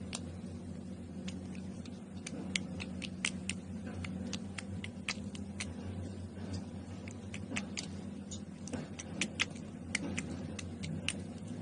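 Slime being squeezed and worked by hand, giving irregular sticky clicks and small pops, a few a second, over a steady low hum.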